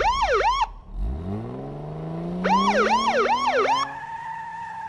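Police car siren yelping in fast rising sweeps, about four a second, cutting off half a second in. Then the car's engine revs up with a steadily rising pitch as it drives through sand, and the siren yelps again over it for about a second. Near the end a steady high tone holds.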